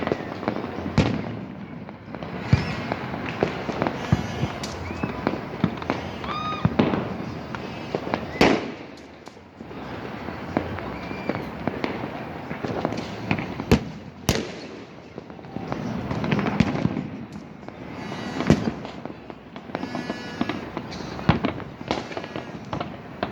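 Many fireworks and firecrackers going off at once: a continuous barrage of sharp bangs and crackling, with a few whistles gliding in pitch.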